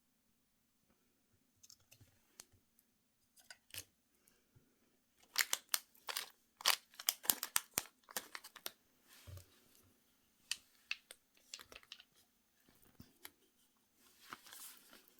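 Product packaging being handled and opened: a run of sharp crinkling and tearing crackles from about five to nine seconds in, with lighter rustles and taps before it and another short burst near the end.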